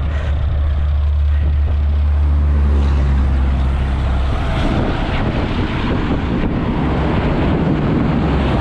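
A vehicle engine running with a steady low drone; a little past the middle the drone eases and a broader rushing noise rises.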